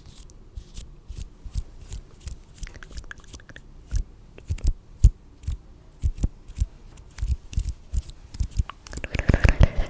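Close-miked ASMR trigger sounds: irregular soft clicks and taps, a few a second, that become denser and louder about nine seconds in.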